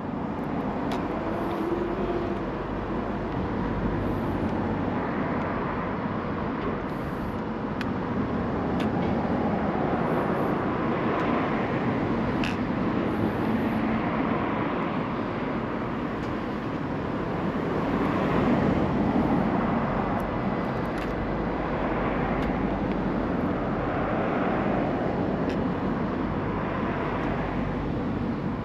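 Small camera drone in flight, its propeller hum steady with swells that rise and fade every few seconds, mixed with outdoor road noise.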